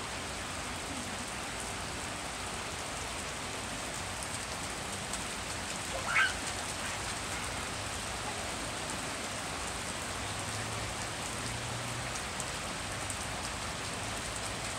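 Rain falling steadily on a wet paved patio, an even hiss. About six seconds in, a brief high-pitched sound rises above it, the loudest moment.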